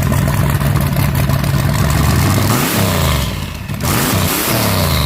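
A vehicle engine running steadily, then revved up and back down twice, about three and four and a half seconds in.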